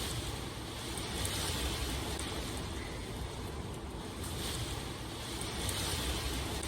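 Steady rushing ambience of water and wind, swelling and easing about every four seconds.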